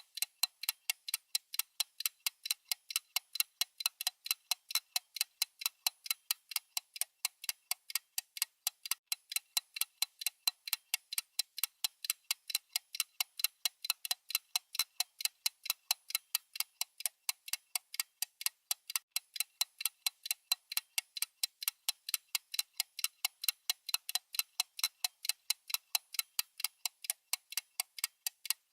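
Clock-ticking sound effect of a countdown timer: light, high, evenly spaced ticks at a steady, unchanging rate.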